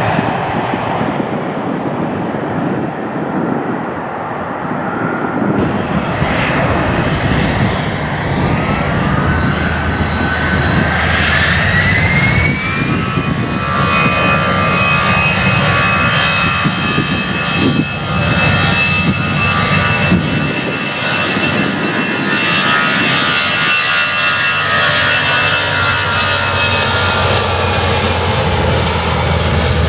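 Jet airliner's engines running up for take-off: a loud roar with a whine that climbs in pitch about eight to twelve seconds in, then holds steady at take-off power.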